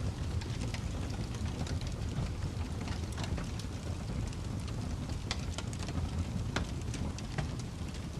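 Wood fire crackling, irregular sharp pops and snaps over a steady low rumble.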